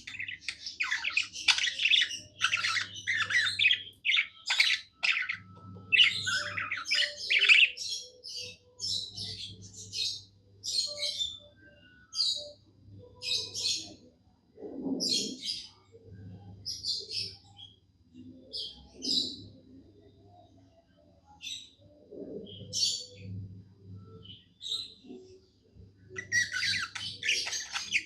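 Budgerigar warbling and chattering: a dense run of fast chirps for about the first eight seconds, then short single chirps about once a second, then dense chatter again near the end.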